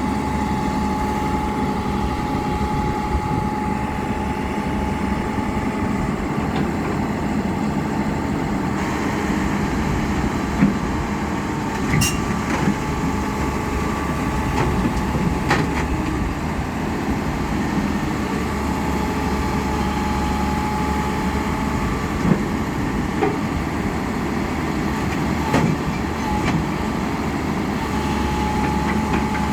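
Hyundai excavator's diesel engine running steadily, with a steady whine that comes and goes and a few sharp metallic clanks.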